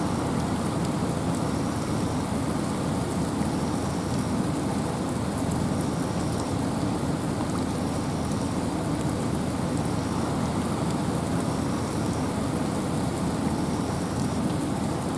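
Steady rain falling through forest trees, with wind: a dense, even hiss that is fullest in the low end and never lets up.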